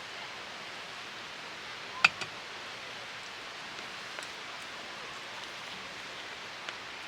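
Steady rush of a small valley stream. A sharp click about two seconds in, followed quickly by a fainter one, with a few faint ticks later.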